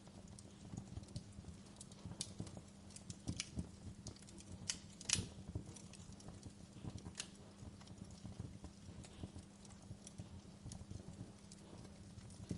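Wood fire in a fireplace crackling and popping irregularly over a low steady rumble of flame, with one sharper, louder pop about five seconds in.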